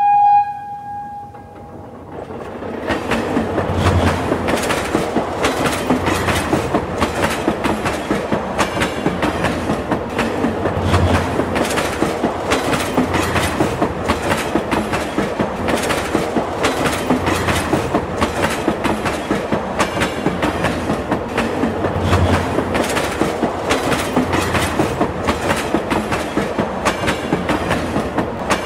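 Train horn sounding one short, steady note at the very start. Then the moving passenger train's wheels clatter over the rail joints, heard loud from an open coach doorway: a steady rumble with rapid rhythmic clicking and an occasional low thump.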